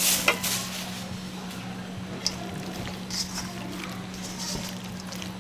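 Wet kitchen work: squishing and stirring with light clinks of dishes and utensils, over a steady low hum.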